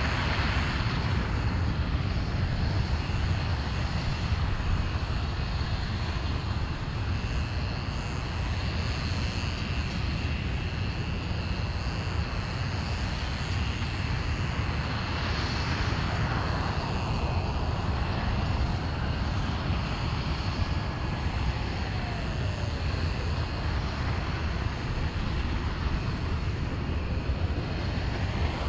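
RS-25 liquid-hydrogen and liquid-oxygen rocket engine firing on a test stand: a steady, deep roar with no breaks.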